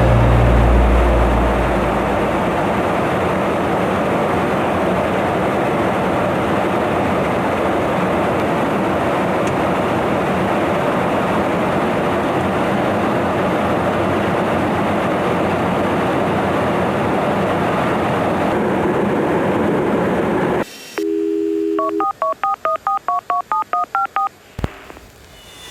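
A steady rushing noise runs for about twenty seconds and then cuts off. A telephone dial tone follows briefly, then about a dozen rapid touch-tone (DTMF) keypad beeps as a number is dialed.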